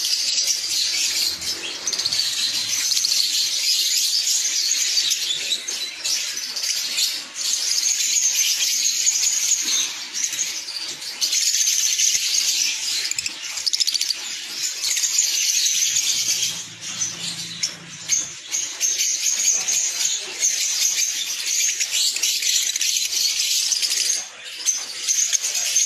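A flock of lovebirds chirping, a dense, continuous high-pitched chatter with short dips now and then.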